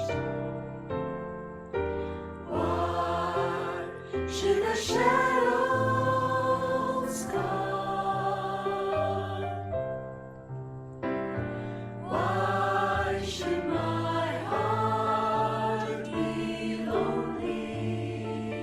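Choral singing with instrumental accompaniment: held, wavering sung notes over a bass line that moves step by step, with a brief lull about ten seconds in.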